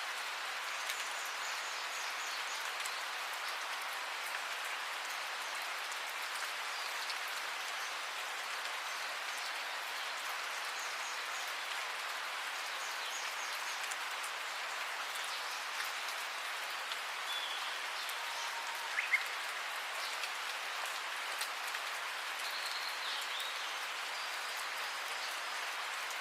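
Steady rain falling, an even hiss of many drops hitting surfaces.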